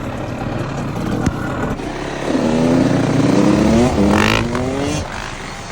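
Dirt bike engine accelerating hard: its pitch climbs, drops once as it shifts up a gear, climbs again, then the throttle is rolled off.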